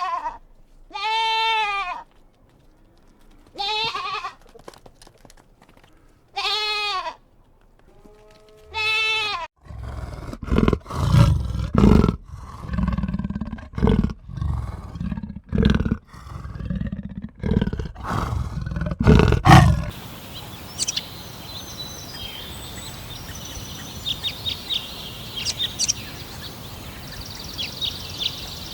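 Five drawn-out bleats, then a lion roaring in a series of deep, loud grunts about once a second for some ten seconds, stopping suddenly; then birds chirping over a steady outdoor hiss.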